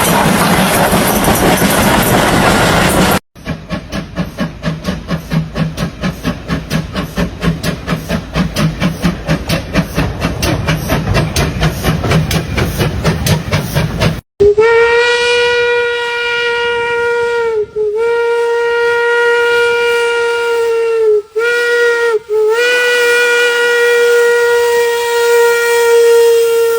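Steam locomotive sounds in three cut-together parts: first a loud rush of steam hiss, then the rapid rhythmic chuffing of the exhaust, about four beats a second and growing louder, then the steam whistle blowing a long steady note, broken off briefly three times.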